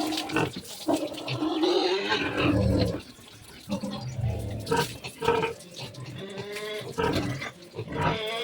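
Pigs grunting and squealing in a pen, irregular calls with a few rising squeals.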